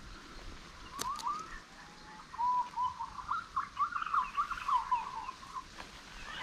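A bird calling: a quick run of whistled, warbling notes that starts about two seconds in and breaks off near the end, with two sharp clicks about a second in.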